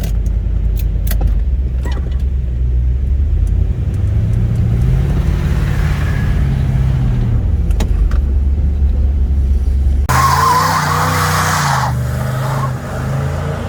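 1969 Chevrolet Chevelle SS's 396 big-block V8 running under way, its pitch climbing as it accelerates and then dropping back. About ten seconds in, a sudden harsher rush of noise with a thin squealing tone joins it for a couple of seconds.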